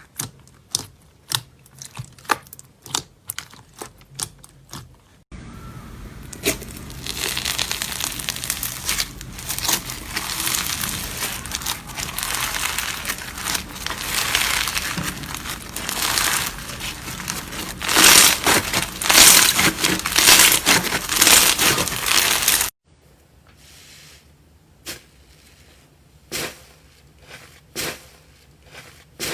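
Slime being handled: first a run of sharp separate pops and clicks, then a long stretch of dense crackling and crinkling that grows loudest in its later part, then sparse pops again. The changes come suddenly, like cuts between clips.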